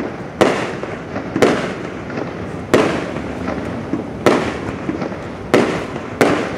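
Aerial firework shells bursting, six sharp booms a second or so apart, each trailing off in a rolling echo.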